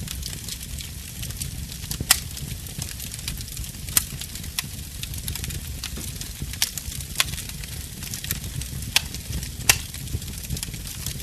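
Wood fire crackling in a fireplace: a steady low rumble and hiss broken by about seven sharp pops, the loudest about two seconds in and near the end.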